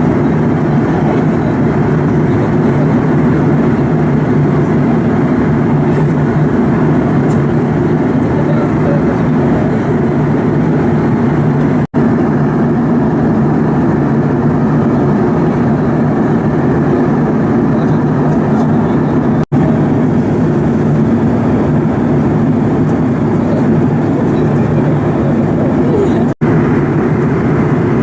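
Steady cabin noise of an airliner in flight: a constant rushing drone, briefly cut off three times.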